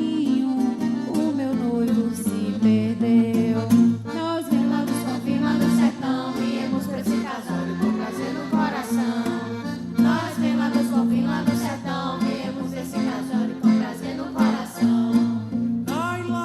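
Lively live band music with guitar, playing continuously with a regular beat.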